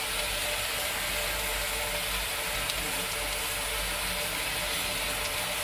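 Steady hiss of steam from a Stephenson 0-4-0 saddle tank steam locomotive in steam, even and unbroken throughout.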